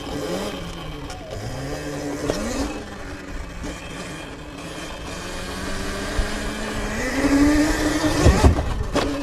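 Sur-Ron electric dirt bike's motor whining as the throttle is worked: several short rising whines, then a longer pull whose pitch climbs and is loudest near the end before it drops away.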